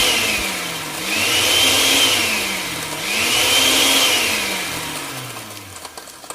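A blender motor running in three surges, each rising and then falling in pitch, then fading out near the end.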